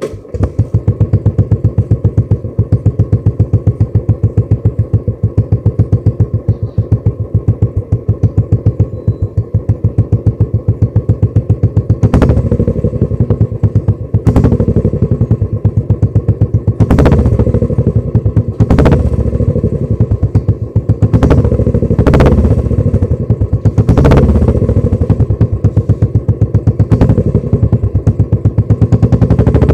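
Royal Enfield Classic 350's single-cylinder engine idling through a Red Rooster aftermarket performance exhaust, a steady, evenly pulsed beat. About twelve seconds in, the throttle starts being blipped: a string of short revs every second or two over the idle.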